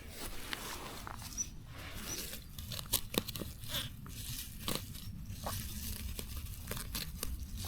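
Plants being torn and snapped by hand: irregular crunching and tearing with scattered sharp snaps.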